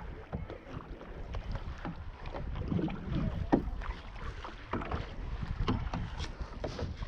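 Canoe being paddled: irregular paddle splashes and knocks against the hull, with wind rumbling on the microphone.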